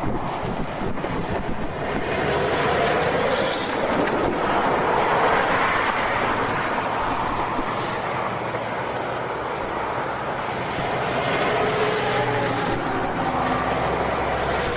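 Strong wind buffeting the microphone in a steady rushing noise, with a low steady rumble underneath.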